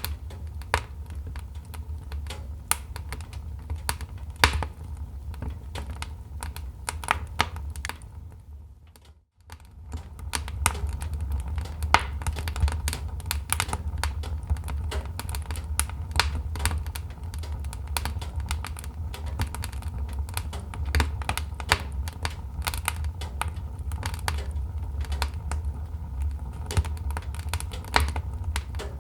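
Wood fire crackling and popping: quick irregular snaps over a low steady rumble of the burning logs. The sound fades almost to nothing for a moment about nine seconds in, then picks up again.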